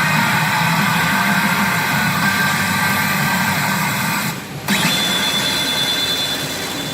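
Pachinko machine sounds during play: a loud, dense, steady mix of machine noise and electronic tones. It dips briefly about four and a half seconds in, then comes back with a steady high tone.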